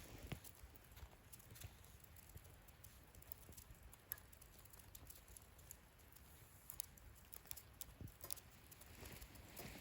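Wood fire burning in a campfire stand, crackling faintly with scattered sharp pops over a low hiss.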